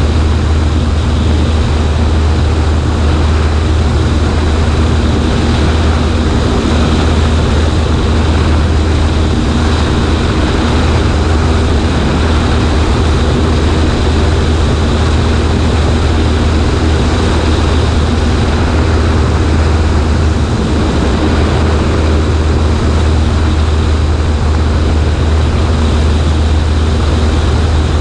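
Cessna 140A's piston engine and propeller running steadily in cruise flight, with wind rushing past a camera mounted on the right wing.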